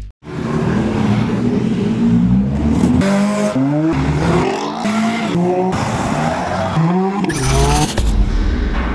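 Car engine revving hard in a run of rising pitch sweeps that climb and drop again, as if accelerating through gears, over a steady rush of noise. A louder rushing burst comes near the end.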